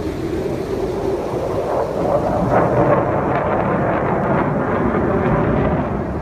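Military jet flying low over a city, a loud steady rumble, its hiss fading about three seconds in.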